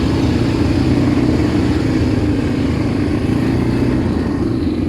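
ATV engine running steadily, a loud even hum with no clear revving.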